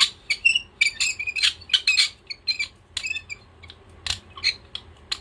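Short, sharp squeaks and sticky clicks of tacky acrylic paint being worked on a Gelli gel printing plate, coming in a quick irregular string.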